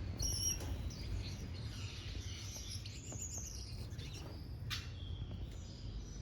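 Small aviary birds chirping: a few short high chirps right at the start, then a falling twittering call around the middle. A sharp click comes a little later, over a low steady rumble.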